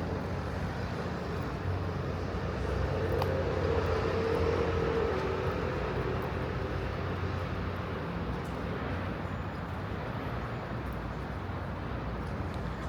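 City street traffic: a steady motor-vehicle engine hum, swelling as a vehicle passes about three to six seconds in.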